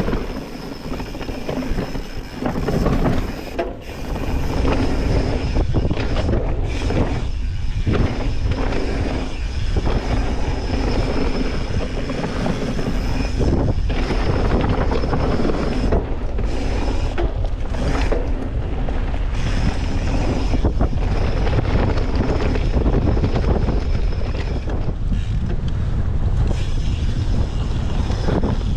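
Mountain bike riding down a trail, heard from the rider's camera: steady rushing wind on the microphone mixed with tyre noise on dirt and the rattle of the bike over rough ground. The noise is a little uneven for the first few seconds, then steady and loud.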